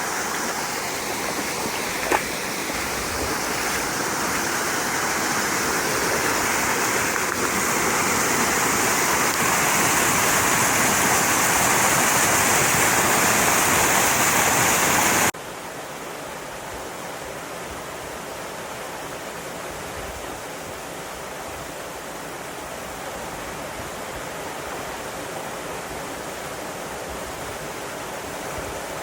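Rushing water of a mountain stream, a steady rush that grows slowly louder, with a single click about two seconds in. About halfway through it cuts abruptly to a quieter, steady water rush.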